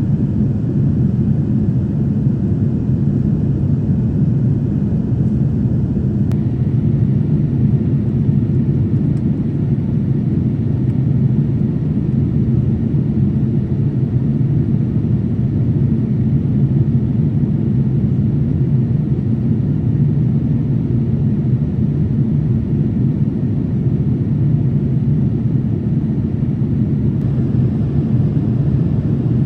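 Steady low rumble of a Boeing 787-8 airliner's cabin in flight, unchanging in level.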